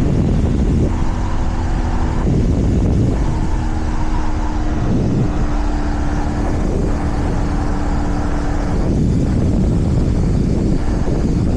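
Motorcycle engine running under way with heavy wind rush over the microphone. The engine's steady note breaks off and changes a few times as the throttle is varied.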